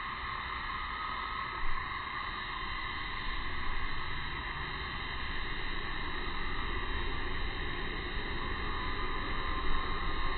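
Steady outdoor ambient hiss with a low rumble, broken by two brief soft bumps, one near the start and one near the end.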